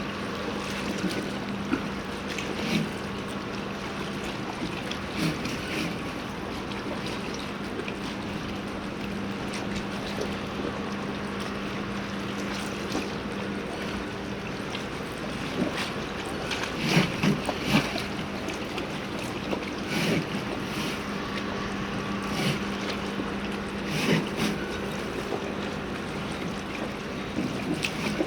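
Harbour ambience: a steady low machine hum over a wash of water and wind, with scattered short knocks and clanks, a cluster of them about two-thirds of the way in.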